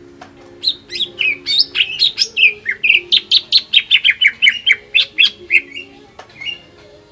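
Cucak ijo (greater green leafbird) singing a fast, loud run of short chirping notes, many dropping in pitch, about five a second for some five seconds, with a few single calls before and after.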